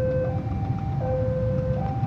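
Two-note electronic warning tone alternating between a lower and a higher pitch, each note lasting about three-quarters of a second, over the low rumble of a train.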